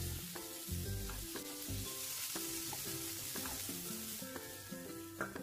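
Cheese-filled pan pie frying in a non-stick pan, sizzling steadily, the sizzle thinning about four seconds in. Gentle guitar background music plays over it.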